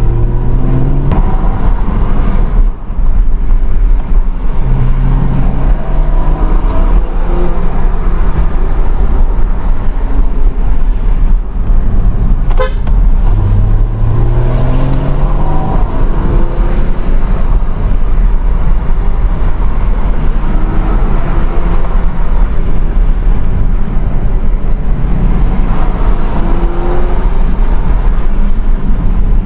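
Porsche Cayman's engine heard from inside the cabin, rising in pitch several times as the car accelerates and then falling back, over a steady low road rumble.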